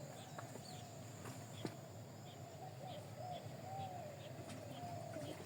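Birds calling: a run of short, wavering low calls, one after another, with faint high chirps among them.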